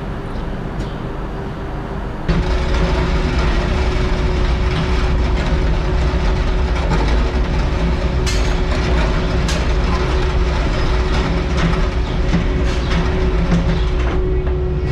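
Heavy farm machinery running with a low engine rumble, a steady hum and constant clanking and rattling, getting louder about two seconds in.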